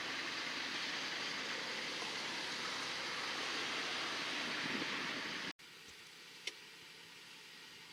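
Steady rushing rail noise of a train rolling past, cut off suddenly about five and a half seconds in. Then a much quieter background with a few faint clicks.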